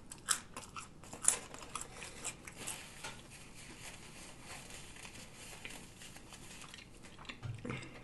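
Close-miked chewing and mouth smacking on a bite of cod fish sandwich, with sharp wet clicks over the first three seconds, then softer chewing and a paper napkin crinkling as hands are wiped. A short dull thump comes near the end.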